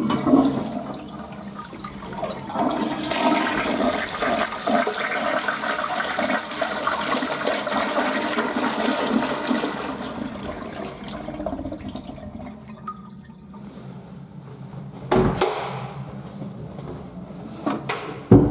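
Toilet flushing: a rush of water that starts sharply, runs for about ten seconds and then tails off. Two short knocks follow near the end.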